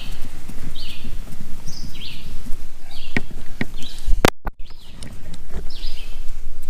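A bird calling over and over in short, high chirps, about one or two a second, over a low rumbling background. A few sharp clicks come just past the middle.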